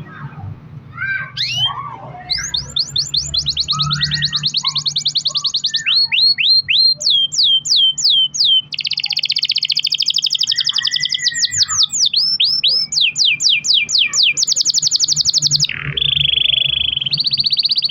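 Canary singing a long roll: runs of rapid repeated notes, fast downward-sweeping whistles giving way to buzzy trills, each tour changing every second or two without a break.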